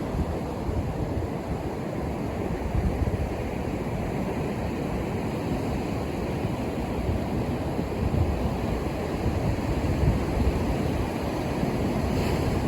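Ocean surf breaking and washing onto the shore: a steady rushing wash with a low rumble underneath, swelling gently as the waves come in.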